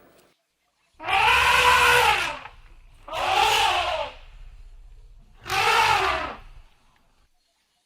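Three loud, drawn-out animal calls about a second apart, each rising then falling in pitch with a harsh, raspy edge.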